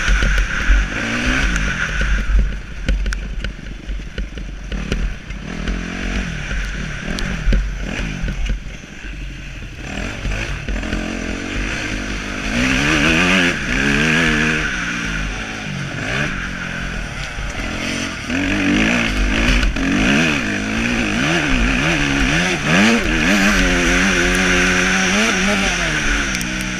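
Motocross bike engines revving up and down over and over, the pitch climbing and dropping every second or two as the throttle is worked. The engines get louder about halfway through.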